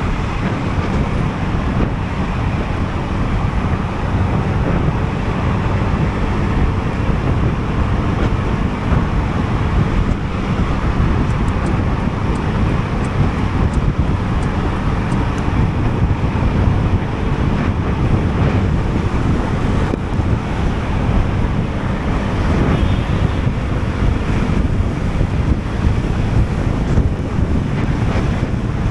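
Steady wind buffeting on an action camera's microphone while riding a Sym Jet X 125 scooter, with road and traffic noise underneath.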